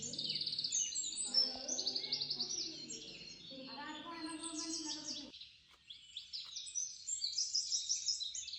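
A flock of small birds chirping, many short high calls overlapping without a break. Lower voices sound under the chirping and stop about five seconds in.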